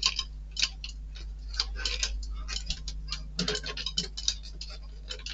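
Irregular light clicks and taps of small screws and metal model-kit parts being handled and fitted, over a faint steady hum.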